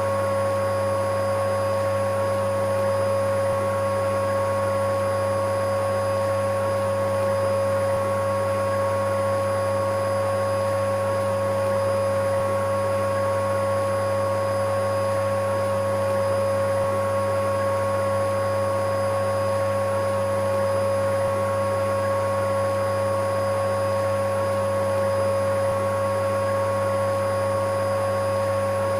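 Electric vacuum cleaner running steadily: a constant motor whir with a strong, unwavering hum tone.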